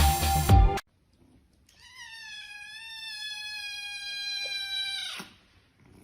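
A cat giving one long, drawn-out meow lasting about three and a half seconds, its pitch rising slightly and then sinking slowly, after background music cuts off under a second in.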